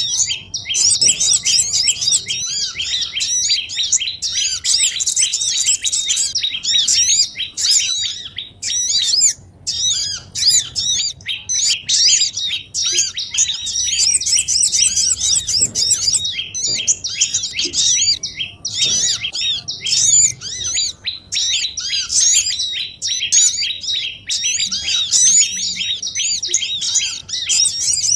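Dense chatter of many small birds from a bird-trapping lure recording: rapid high chirps and short trills overlapping almost without pause, with a brief lull about nine to ten seconds in.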